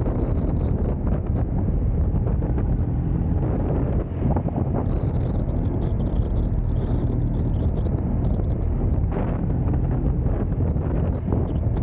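Motorcycle running steadily on the road, its engine a continuous low hum under heavy wind buffeting on the microphone.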